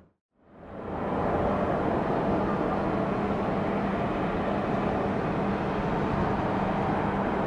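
Airliner jet engines running steadily, an even rushing noise with a low hum, fading in from silence.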